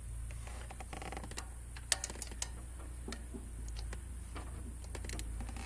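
Socket ratchet wrench with a long socket clicking in short runs while loosening a bracket bolt, with a few sharp metal clinks. A steady low hum runs underneath.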